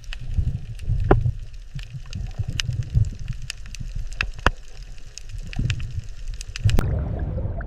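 Underwater water ambience: a low, uneven rumble of moving water with scattered sharp clicks and pops throughout.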